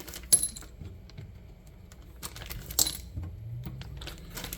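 Small loose metal parts clinking and clicking as they are handled, with two sharper clinks: one about a third of a second in and one near three seconds.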